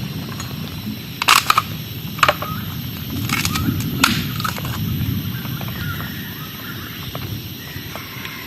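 Steady heavy rain noise, with a handful of sharp cracks and snaps between about one and four seconds in.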